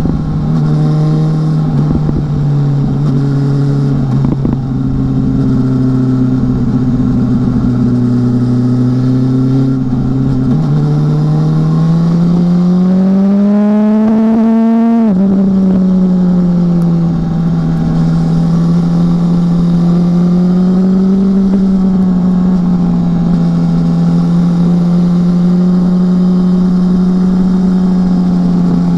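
BMW S1000R motorcycle's inline-four engine running under way at a steady note. About ten seconds in the pitch steps up, then rises as it revs for a few seconds and drops sharply at about fifteen seconds, settling back to a steady cruise with gentle rises and falls.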